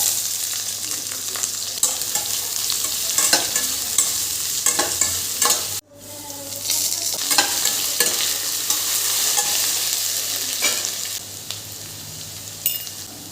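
Food sizzling as it fries in a hot pan while being stirred, with a spatula scraping and clinking against the pan. The sound drops out for an instant just under six seconds in and is quieter near the end.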